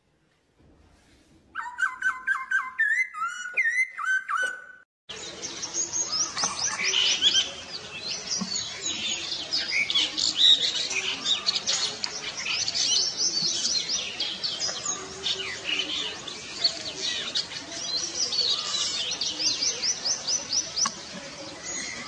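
Birds calling: a short run of clear whistled notes stepping up and down in pitch, then, from about five seconds in, a dense run of fast chirps and chatter that goes on without a break.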